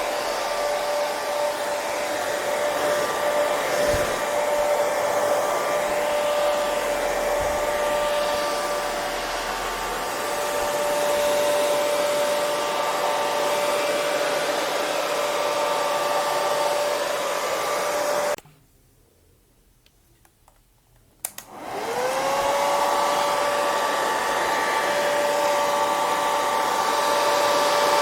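Hair dryer running steadily, a whooshing blow with a motor whine over it. About two-thirds of the way through it cuts out suddenly. After about three seconds of near silence there is a click, and it starts again, its whine rising in pitch as the motor spins up.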